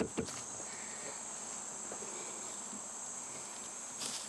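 Steady, high-pitched late-summer insect chorus, a continuous shrill drone, with a few soft footfalls on the trail near the start and again near the end.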